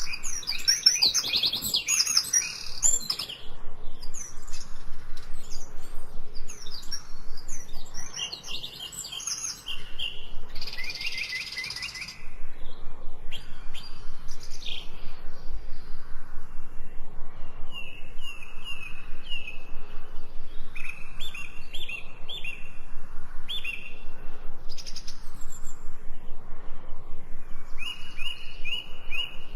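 Birds chirping and singing, several calls overlapping, with repeated quick trilled phrases of high notes.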